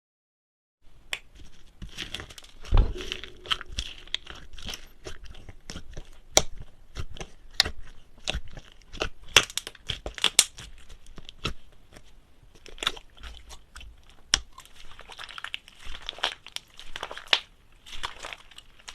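Hands kneading and stretching slime: irregular sticky clicks and air-bubble pops, with one heavier thud about three seconds in.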